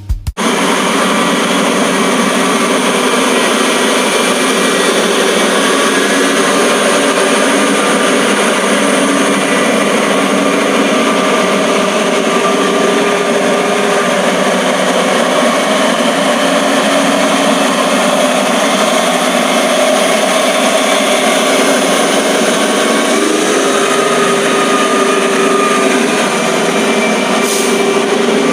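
Dump truck engine running steadily, a loud even drone with a slight step up in pitch about three-quarters of the way through.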